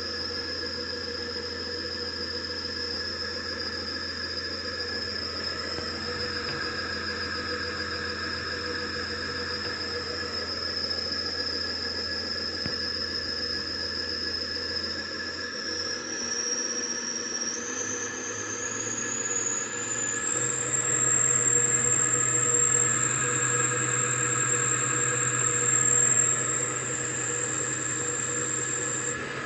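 4 kW induction motor driven by a homemade frequency inverter, giving a steady high-pitched electrical whine over a low hum. About halfway through, the whine climbs in a few small steps and the hum moves up in pitch, and the sound gets somewhat louder.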